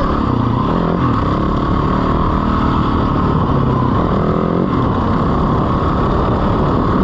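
A 450cc four-stroke single-cylinder dirt bike engine running while riding, its pitch shifting with the throttle and rising about four seconds in.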